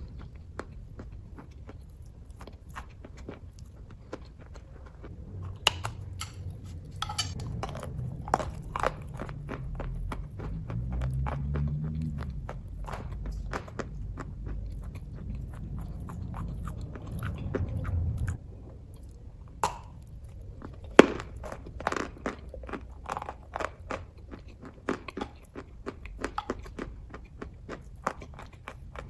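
Close-up chewing of kaju katli, soft cashew fudge, with many quick wet mouth clicks and smacks. A low rumble sits underneath through the middle of the stretch.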